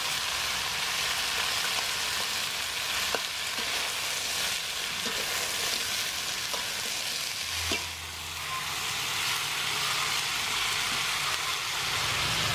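Razor clams sizzling in hot oil in a steel wok as they are stir-fried, a steady hiss with a metal spatula scraping and clicking against the pan now and then.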